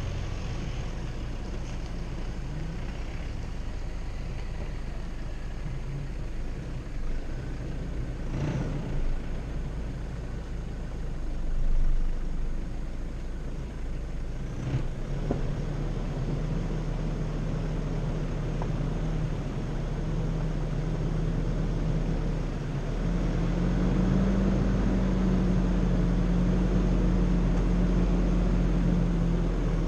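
Off-road 4x4's engine running at low revs as it crawls along a rough dirt track, with a couple of brief knocks. The engine note rises a little and gets louder about three-quarters of the way through.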